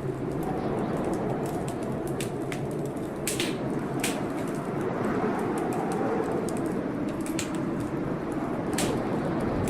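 Wood fire crackling in a fireplace, with several sharp pops among many small ticks, over a steady rush of storm rain.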